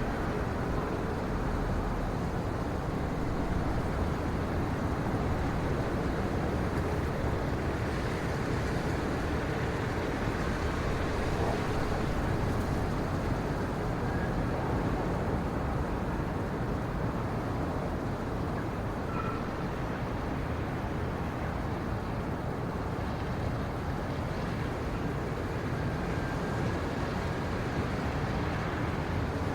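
Steady, low, even rumbling noise with no distinct events and no change in level.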